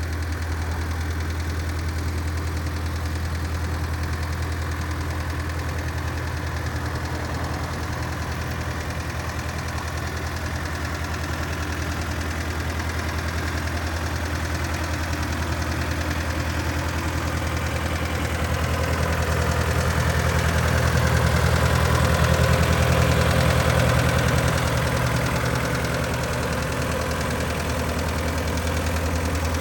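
Caterpillar 247B compact track loader's diesel engine idling steadily, with a low, even hum; it gets louder for a few seconds past the middle, then settles back.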